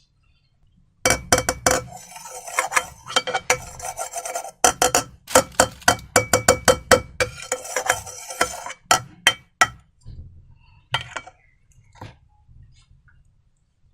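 Slime being stirred and squished by hand, a dense run of quick wet clicks and crackles starting about a second in, thinning to a few scattered clicks near the end.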